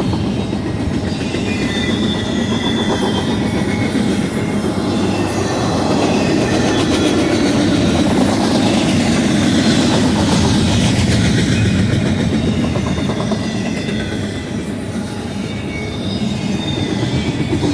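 Long BNSF intermodal freight train rolling steadily past, its wheels clacking over the rail with brief faint high squeals. The rumble swells in the middle and eases a little near the end.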